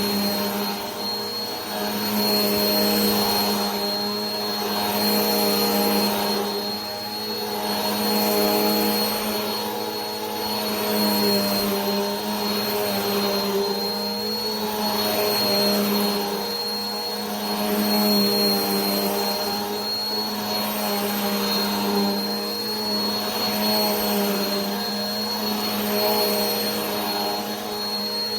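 Vacuum cleaner running steadily: a motor hum with a high whine over a rushing noise. The sound swells and fades about every two and a half seconds.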